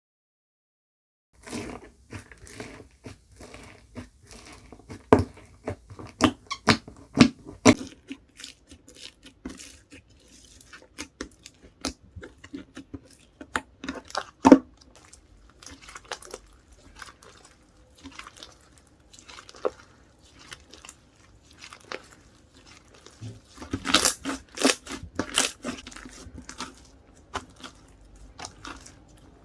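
Hands squishing, stretching and poking a glossy small-foam-ball slime, making irregular sticky clicks and pops. It starts about a second and a half in and grows into a dense run of pops near the end.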